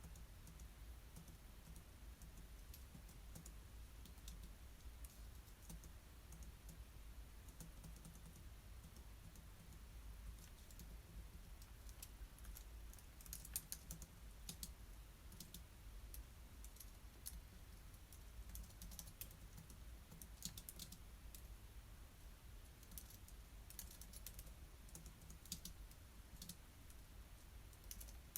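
Faint computer-keyboard typing: scattered key clicks that bunch into short runs of typing several times, over a steady low hum.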